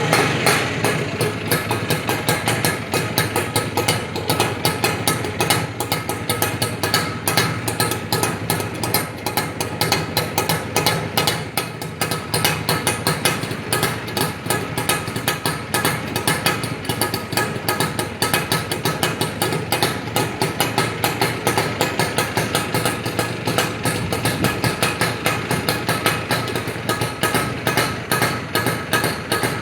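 IZh Jupiter 5 motorcycle's two-cylinder two-stroke engine idling steadily with an even, rapid pulsing beat, settled just after a rev has died away.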